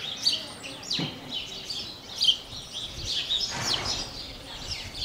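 Small birds chirping and twittering, many short calls overlapping one another.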